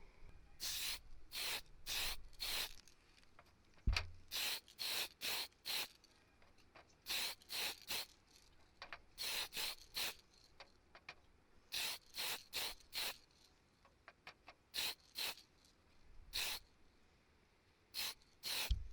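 Aerosol spray can sprayed in short hissing bursts, in quick groups of three or four, with a low thump about four seconds in and another near the end.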